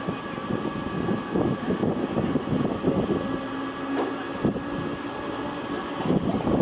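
Train passing close by: a continuous loud rumble of wheels on the rails with rapid clattering and a few steady whining tones.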